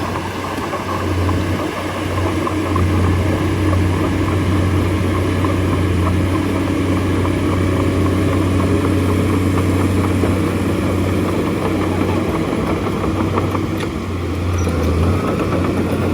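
Bulldozer's diesel engine running steadily under load as it pushes soil. It eases off briefly near the end, then picks up again.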